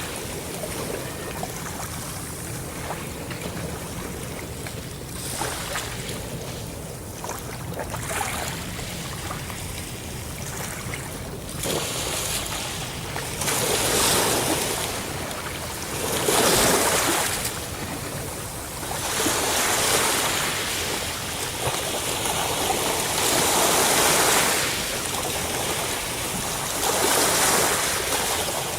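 Ocean waves breaking and washing on a shore, surging and falling back every few seconds, with wind noise on the microphone.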